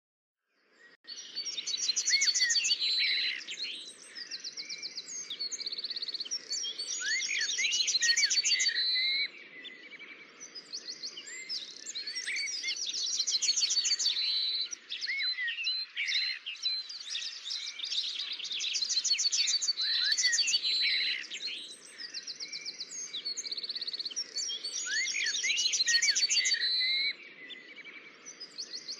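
Several birds singing and chirping together, with fast trills and short rising calls in phrases every few seconds, starting about a second in, over faint low background noise.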